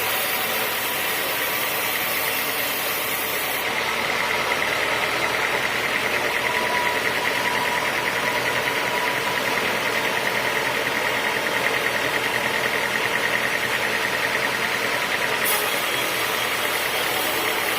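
Sawmill machinery running steadily, with a constant whine over the machine noise. The sound shifts a few seconds in and shifts back near the end.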